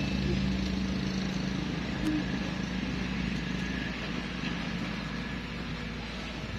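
Steady low motor hum under a haze of outdoor noise, easing slightly in the second half.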